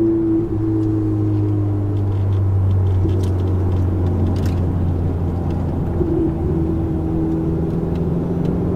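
Ferrari 488 GTB's twin-turbo V8 through a Capristo exhaust, heard from inside the cabin, running at steady moderate revs with a low drone. There is a brief dip about half a second in, then the engine note sags slowly as the car cruises.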